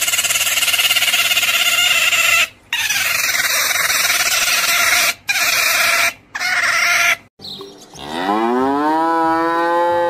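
A sea otter squealing in long, harsh, high calls, broken three times by short pauses. About eight seconds in, a cow moos once, the call rising in pitch and then holding for about two seconds.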